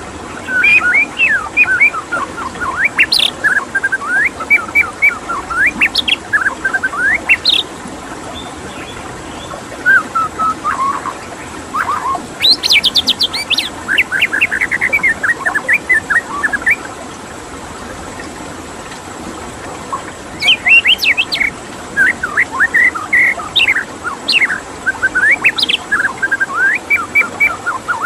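White-rumped shama singing rapid, varied whistled phrases in three long runs with short pauses between them, over a steady hiss of running water.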